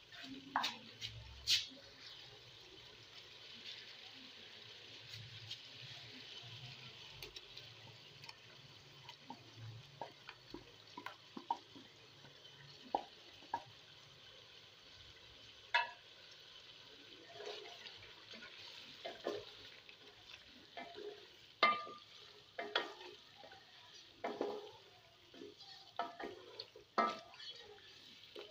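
Chicken pieces sizzling in hot oil in a pot, a steady high hiss. A wooden spoon stirs and knocks against the pot, with the knocks coming more often in the second half.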